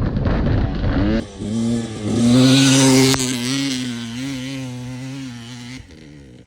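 GasGas enduro dirt bike engine revving up, then held at high revs in a steady note that is loudest about two seconds in and fades away before cutting off near the end.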